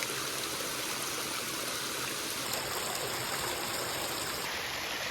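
Waterfall water rushing steadily, an even unbroken noise.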